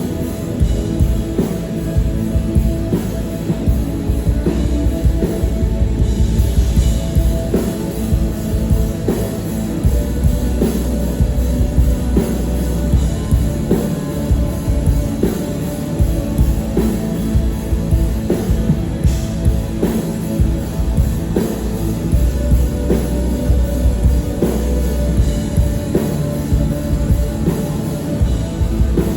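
Live rock band playing: distorted guitar and bass over a steady drum beat, loud and continuous.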